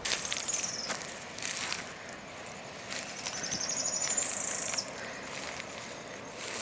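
A small bird singing high, rapid trills: a short falling trill at the start and a longer one about three seconds in, over quiet outdoor background hiss.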